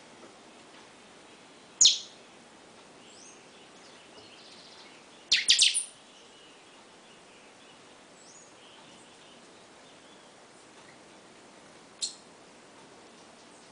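Caged bird giving short, sharp high calls: one about two seconds in, a quick run of several around five and a half seconds, and one more near the end, with faint chirps in between.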